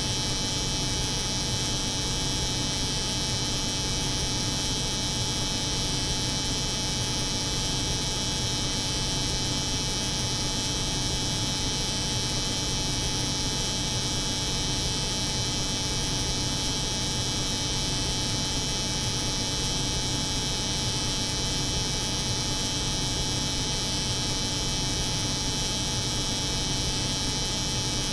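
Electric hair clipper buzzing steadily, layered over the constant hum of a cold room's refrigeration, with no change in pitch or level.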